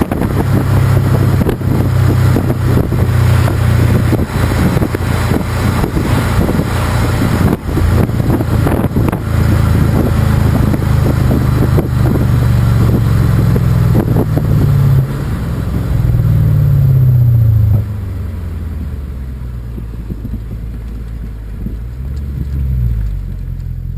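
Volvo S80's 4.4-litre V8 running through a Heico sport exhaust while driving: a loud, steady low drone that falls in pitch and drops off about three quarters of the way through as the throttle eases, then a brief rise and fall in revs near the end.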